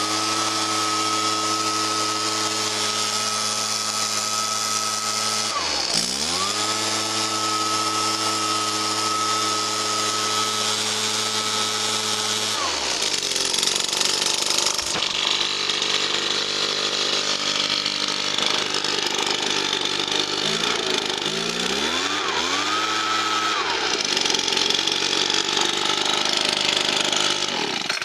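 Zenoah HBZ260EZ two-stroke engine blower running at full throttle with a rush of air. The throttle dips briefly about six seconds in and comes straight back up, then falls to idle around halfway. It is revved once more and settles back before the engine cuts off at the very end.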